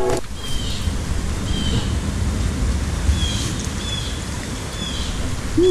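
Outdoor woodland ambience: a steady low rumble of wind on the microphone, with a small bird giving short, falling chirps about once a second.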